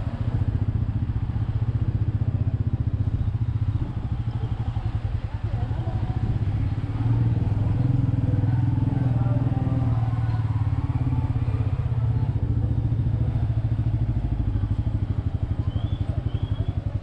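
Royal Enfield Meteor 350's single-cylinder engine running steadily with a fast, even thump, a little louder in the middle.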